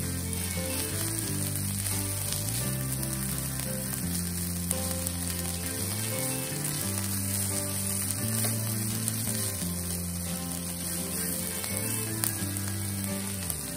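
Chopped cekur manis (sweet leaf) greens sizzling in a nonstick pan as they are stir-fried with a spatula. The moisture from the leaves is cooking off. Soft background music with held low notes plays underneath.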